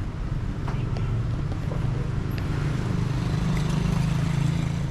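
Street traffic: a motor vehicle engine running with a steady low hum that swells about three seconds in as it passes close.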